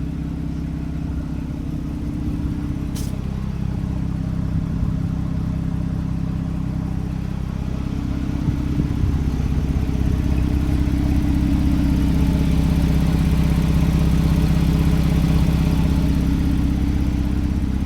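Tuned 2017 Porsche 911 Carrera GTS twin-turbo flat-six, fitted with high-flow cat-bypass downpipes, idling steadily. The engine note grows gradually louder from about eight seconds in.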